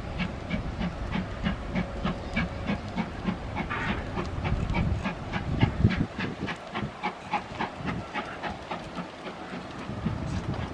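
A train moving slowly on the track, with a regular clatter of about three beats a second that peaks about six seconds in.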